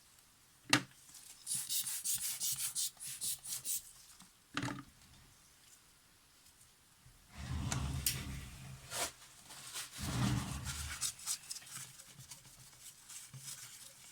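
Quick rubbing and wiping strokes on the small mirror of a Polaroid SX-70 as it is cleaned, in several runs, with a few sharp clicks in between.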